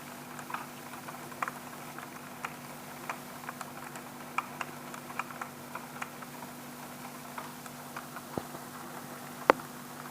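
Hailstones striking window glass: scattered sharp ticks at an irregular pace, a few a second, with one louder knock near the end.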